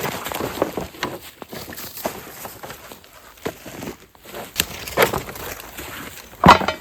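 Irregular crunching and knocking of footsteps and handling noise, with a louder knock about six and a half seconds in.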